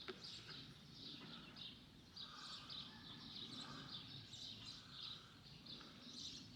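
Faint birds chirping: many short, high calls one after another over a light outdoor background hiss.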